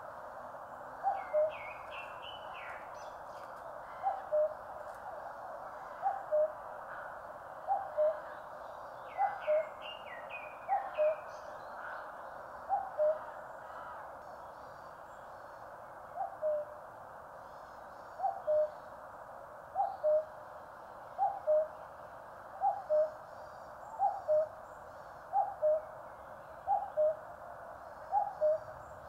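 A common cuckoo calls its two-note "cuck-oo", the second note lower, over and over, about once every second and a half with one short pause partway through. Other small birds chirp and trill higher up.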